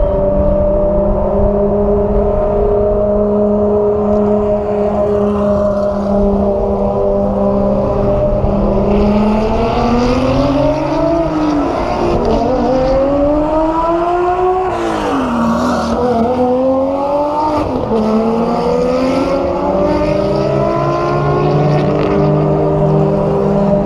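Ferrari FXX Evolution's V12 engine running steadily, then climbing in revs three times, each climb ending in a quick drop, before settling back to a steady lower note.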